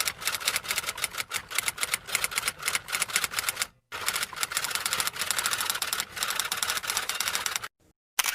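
Typewriter typing: quick, uneven key clicks in two runs, broken by a short pause about four seconds in and stopping shortly before the end.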